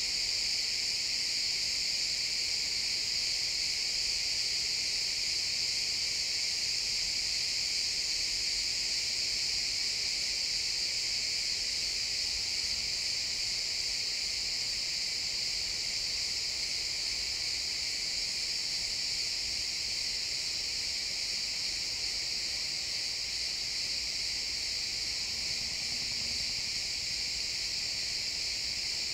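Chorus of many crickets chirping, a dense, steady high-pitched trill without a break.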